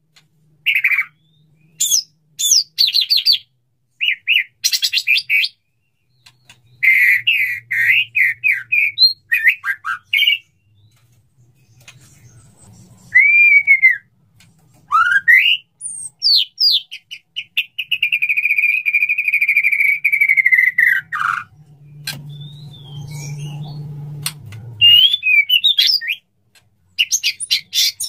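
Male white-rumped shama singing its courtship song to a female: loud, varied whistled phrases, quick trills and clicking notes broken by short pauses, with one long, slightly falling whistle held for about four seconds past the middle.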